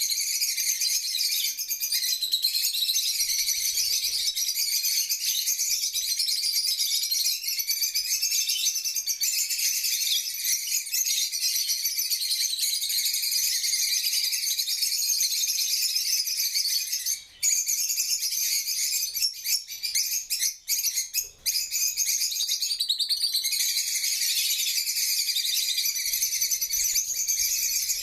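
Birds chirping in a dense, continuous high-pitched twittering, with a few brief breaks about two-thirds of the way through.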